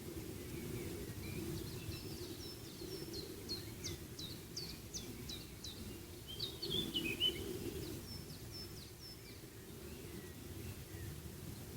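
A songbird calling in a run of short, high, falling chirps, about two a second, with a lower jumbled phrase about halfway through, over a steady low rumble.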